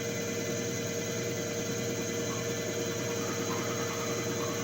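Diesel common-rail injector test bench running a load test on Renault Duster injectors at high pressure. It gives a steady mechanical hum with a fast, even pulsing underneath.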